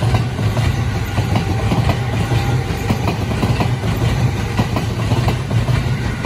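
Electric commuter train running past: a steady low rumble of the cars with wheels clicking over rail joints and points. There is a faint steady whine in the first couple of seconds.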